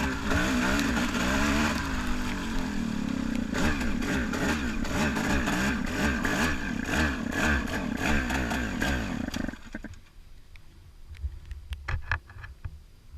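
Dirt bike engine running hard, its revs rising and falling. It drops away suddenly about three-quarters of the way through, leaving a quieter stretch with scattered clatter and a few knocks.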